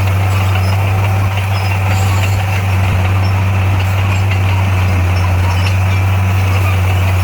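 A heavy construction machine's engine running steadily with a constant deep hum, its pitch and loudness not changing.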